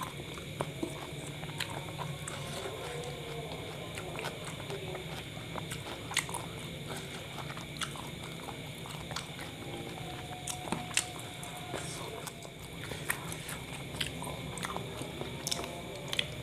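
A person chewing and biting into a soft kebab wrap, with scattered wet mouth clicks picked up close by a clip-on microphone, over a steady low hum.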